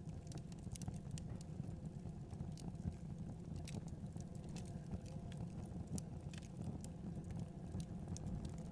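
Wood fire crackling, with many small irregular pops and snaps, over a steady low rumble of blizzard wind.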